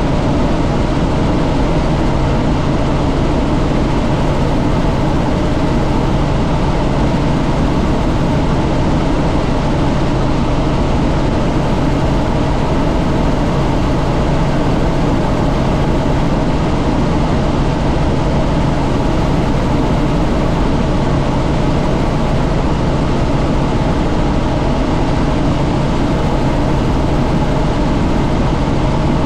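Helicopter in steady flight, heard from on board: a loud, unbroken engine and rotor noise with a constant low hum.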